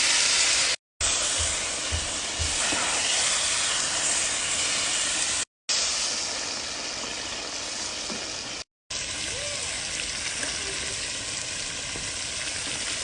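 Meat and vegetables sizzling as they fry in a pot over a campfire: a loud, steady hiss broken by three brief silences.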